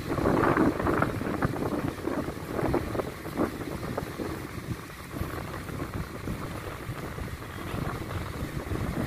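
Rumbling seaside wind and surf noise, loudest in the first second and a half, then steadier.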